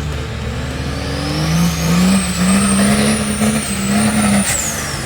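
Monster truck's Cummins turbo diesel engine revving hard, with the turbo's whistle climbing and holding high. The throttle lets off about four and a half seconds in, and the whistle falls away.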